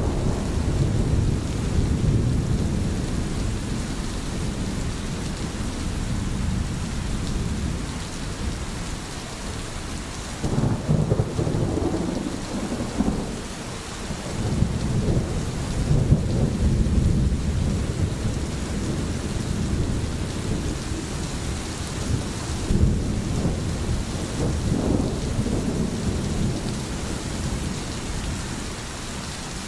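Rain falling steadily with low rolling thunder rumbling underneath, the rumble swelling louder several times.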